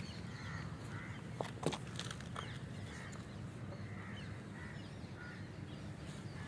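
Faint scattered bird calls, like farmyard fowl, over a steady low rumble, with a couple of sharp clicks about one and a half seconds in.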